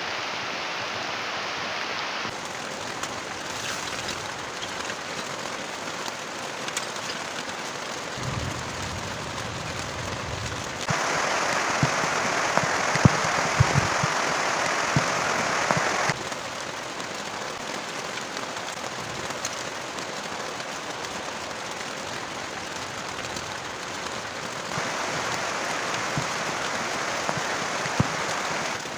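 Heavy rain pouring steadily, with scattered sharp drips and taps of drops hitting nearby surfaces. About eight seconds in there is a low rumble lasting a couple of seconds. The overall level jumps up or down abruptly a few times.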